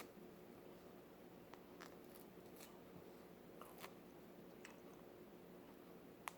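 Faint, scattered wet clicks and smacks of a person chewing mandarin tangerine segments, over a low steady room hum.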